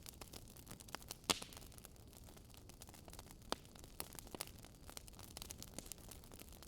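Wood fire crackling: a soft hiss with irregular sharp snaps and pops, one louder pop about a second in.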